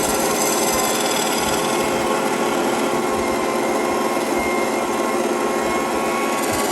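A power tool running steadily while working wood.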